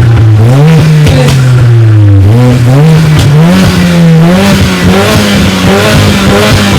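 Supercar engines revving loudly through their exhausts: a steady engine note that rises and drops back, with repeated quick throttle blips sweeping up in pitch about twice a second.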